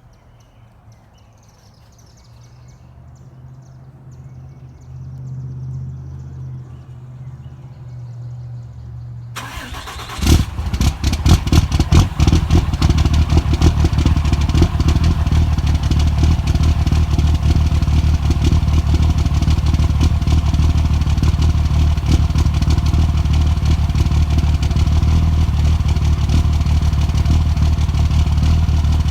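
A low hum builds, then about ten seconds in an engine catches from a cold start with ragged, irregular bursts and settles into running with an uneven beat: a cold-start misfire.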